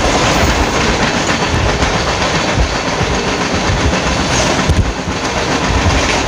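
A passenger train and a freight train of covered wagons passing each other at speed on adjacent tracks: a steady loud rush of wheels on rail and moving air, with irregular low thuds and clatter from the wagons going by.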